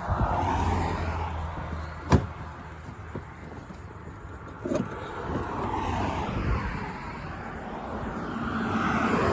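Road traffic passing at speed, cars whooshing by one after another, with a sharp knock about two seconds in and a fainter one a few seconds later.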